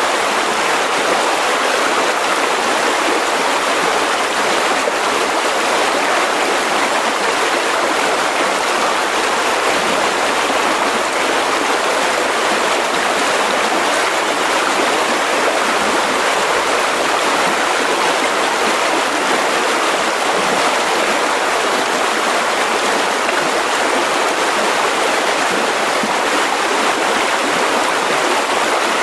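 Mountain river rushing over rocks, a steady, unbroken flow of water.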